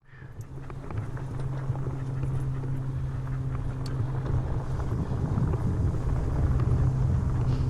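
A steady low hum from a moving vehicle. It grows louder over the first second or two, then holds steady with rough noise underneath.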